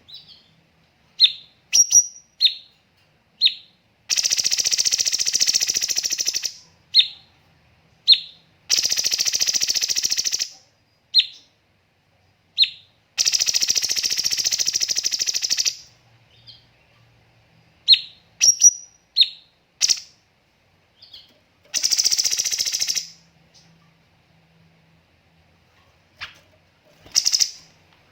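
Cucak cungkok singing: short sharp single chirps in between four long, rapid rattling trills (its "tembakan" or shots) of one to two and a half seconds each, with pauses between phrases.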